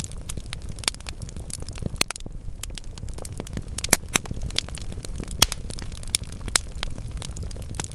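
Wood logs burning in a fireplace: irregular sharp crackles and pops over a steady low rumble of the flames, with the loudest pops about four and five and a half seconds in.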